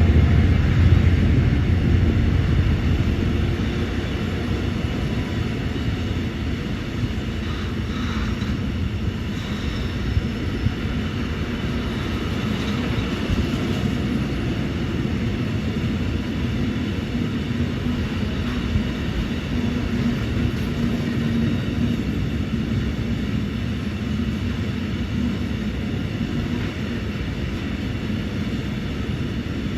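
Container freight train behind a Class 66 diesel locomotive going by. The engine is loudest in the first few seconds, then the wagons keep up a steady rolling rumble on the rails.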